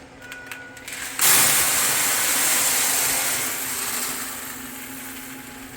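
Shelled corn kernels poured into the hopper of a multi-fuel corn stove: a rushing hiss that starts suddenly about a second in and slowly tapers off. A few light clicks come before it, over a steady low hum.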